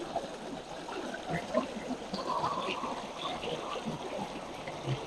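A stream babbling and trickling, with many small irregular splashes over a steady rush of water.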